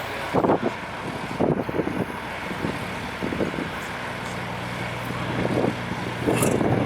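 Semi truck's diesel engine running steadily at low revs, a low hum with uneven louder patches on top.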